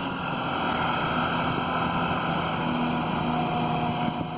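Magnet excavator's diesel engine running steadily while the machine works.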